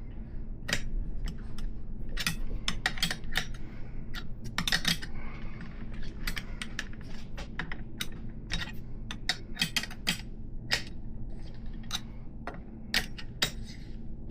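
Irregular metal-on-metal clicks and clinks of a wrench working the cone nuts along a threaded 3/8-inch BMX axle, several a second with short pauses.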